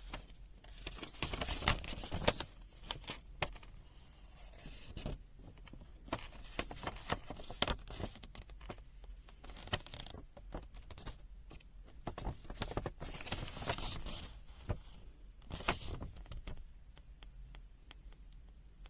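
Handling noise at close range: rustling, scraping and irregular clicks of small objects being moved about, in several bursts with quieter gaps between.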